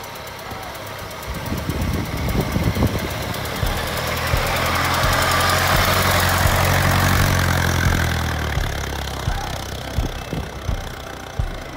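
Ford Model T's four-cylinder side-valve engine running as the car drives past on gravel, its tyres crunching. The engine note swells as it approaches, is loudest about six to seven seconds in, then fades as it pulls away.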